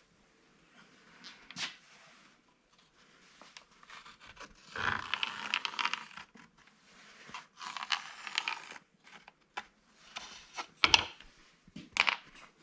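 Paper patterns being handled and leafed through: two longer stretches of rustling and sliding paper about five and eight seconds in, with a few sharp taps near the end.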